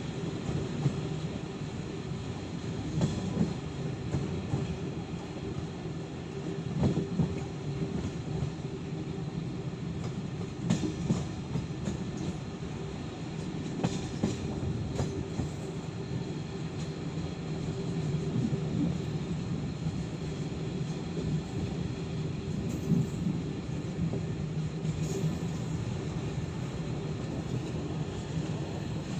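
Passenger train running along the track, heard from aboard its Czech-built coaches: a steady rumble of wheels on rail, broken by irregular clacks as the wheels cross rail joints.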